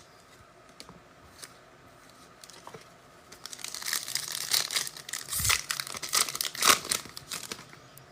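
A foil trading-card pack wrapper being torn open and crinkled, a few light clicks at first, then a few seconds of dense crackling from about three and a half seconds in.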